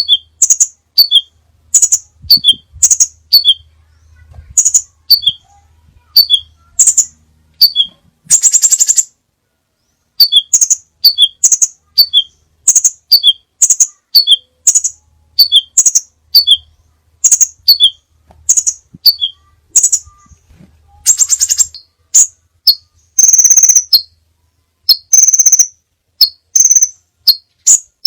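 Crimson sunbird calling: a fast run of short, sharp, high chirps, each stepping down in pitch, broken by a few longer buzzy trills, more of them near the end.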